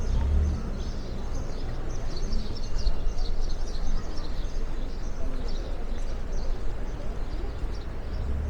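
Small birds chirping, many short quick chirps in a continuous chatter over a steady low rumble.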